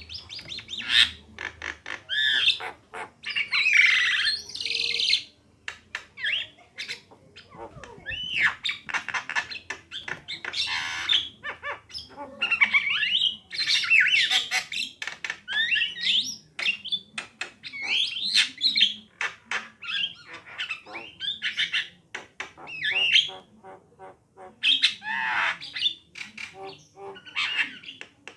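Javan mynas (jalak kebo) singing in a busy, unbroken stream of harsh squawks, sharp clicks, chirps and short whistled glides.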